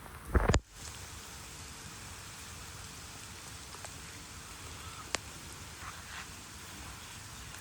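Steady rain with an even hiss and a few sharp drip ticks. About half a second in there is a brief loud thump, and right after it the sound cuts out for an instant.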